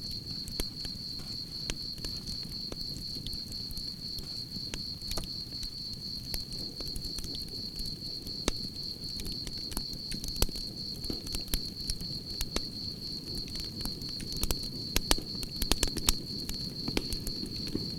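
Campfire crackling and popping over a low rumble of burning wood, with crickets chirping in a steady high trill behind it. The pops come more thickly near the end.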